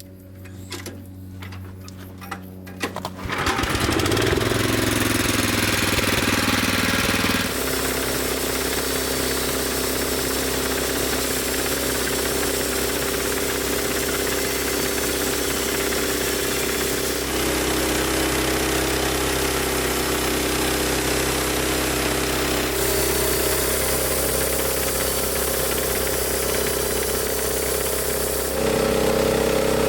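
Engine driving a homemade band sawmill, running quietly at first, then speeding up sharply about three seconds in. It then runs steadily at full speed, with a high hiss above the engine note.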